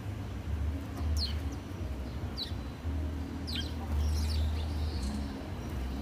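Small birds chirping: a few short, quick chirps, each sliding downward in pitch, spaced a second or so apart, over a steady low rumble.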